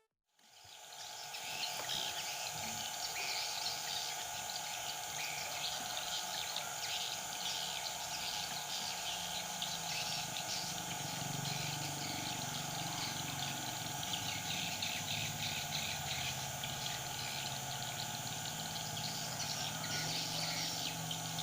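Yellow-vented bulbuls calling and chirping over a steady bed of outdoor noise, a female calling to a male nearby.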